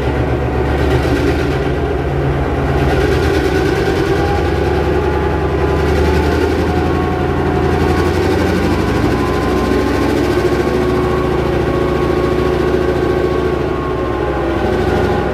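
GM-EMD two-stroke diesel engine of a NOHAB-built Danish diesel locomotive running steadily, a loud, even engine note with a deep hum under it.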